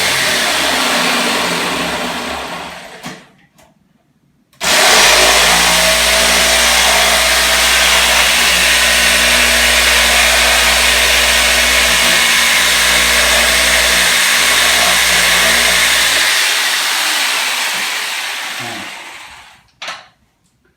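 An electric motor running loud and steady, then switched off and winding down. About four seconds in it starts again suddenly, runs for about twelve seconds and slowly winds down.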